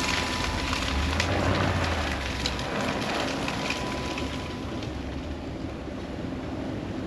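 A vehicle engine running with a low steady hum under a constant crackling, pattering noise, as wind drives snow and ice in a blizzard, easing a little in the second half.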